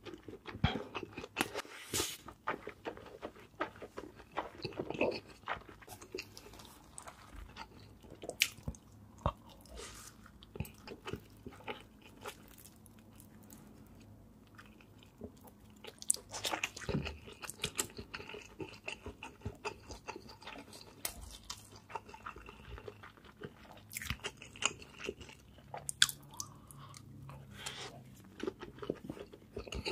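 Close-miked chewing of spicy enoki mushrooms, with irregular crunches, bites and wet mouth sounds.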